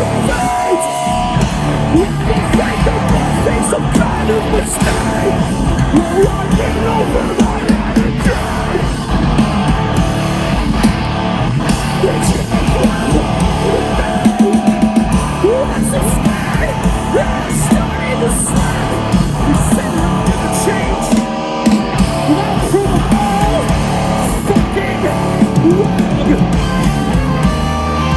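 A heavy rock band playing live and loud, with guitars, drums and yelled vocals.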